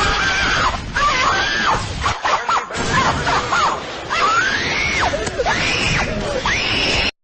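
Meme sound-effect clip of screaming: a string of shrieks that rise and fall in pitch over a dense noisy background, cutting off suddenly near the end.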